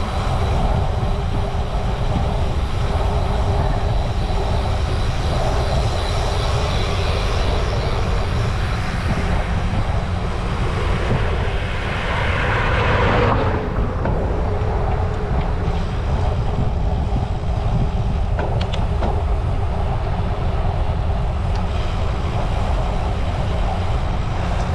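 Wind buffeting the microphone of a camera on a moving bicycle, with a steady low rumble of tyres on the road. About halfway through, a louder rush swells for a couple of seconds and cuts off suddenly.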